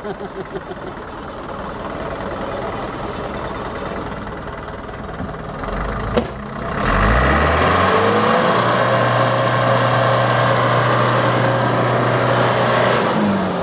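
A heavy truck's diesel engine runs at low revs, then revs up hard about seven seconds in, holds high revs steadily for several seconds, and drops back near the end. A single knock sounds just before the engine revs up.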